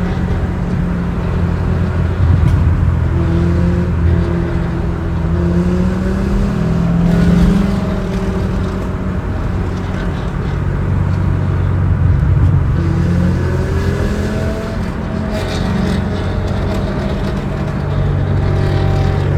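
1999 Dodge Viper RT/10's 8.0-litre V10 running through a Corsa cat-back exhaust with no catalytic converters. The engine note rises and falls as it is revved or accelerated.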